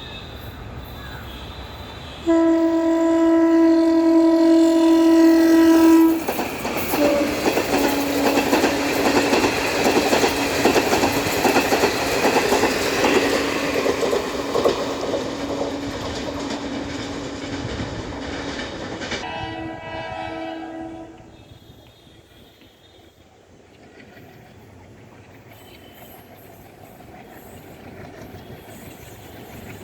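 Train horn sounding loudly for about four seconds, then a train passing at speed with rapid wheel clatter over the rail joints. A second, shorter horn blast comes as the passing ends, and the train sound then falls away.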